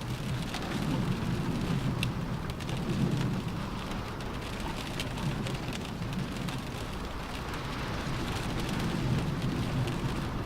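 Steady rain drumming on a car roof, with single drops ticking sharply now and then. Under it a low rumble swells and fades.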